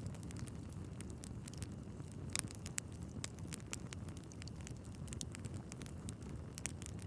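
Wood fire burning in a fireplace: a steady low rumble of the flames with irregular sharp crackles and pops from the logs, a louder pop a little over two seconds in and another near the end.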